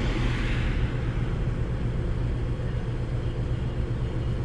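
A steady low mechanical hum under a background of noise, with a soft hiss during the first second.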